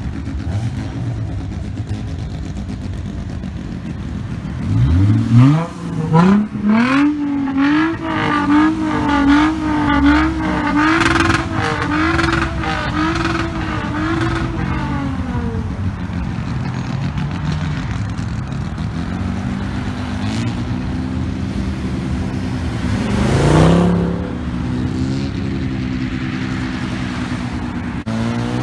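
Car engines as cars drive off: one revs hard about five seconds in, its pitch climbing fast, then rising and dipping about once a second for roughly ten seconds as it pulls away. A steady engine drone continues, with another short rev a few seconds before the end.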